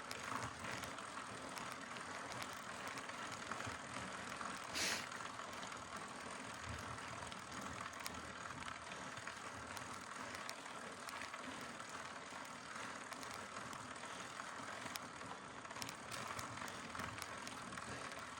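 Mountain bike climbing a dirt trail: steady noise of tyres rolling and the chain and drivetrain working, with a brief louder rush about five seconds in.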